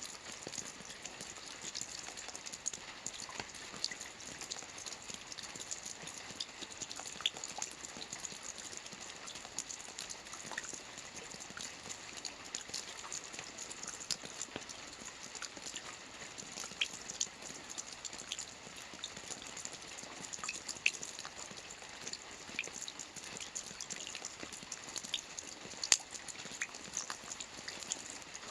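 Rain falling on a lake: a steady hiss of drops on the water with many scattered light patters and drips, a couple of them louder, one about 26 seconds in.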